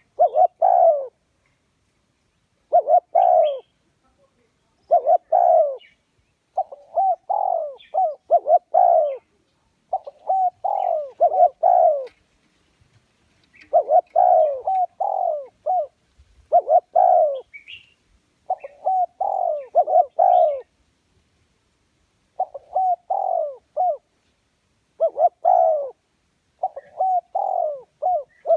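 Spotted dove cooing over and over: short phrases of several low coos, one phrase about every two seconds, with silent gaps between. It is the cu gáy call used as a decoy to draw wild doves to a trap.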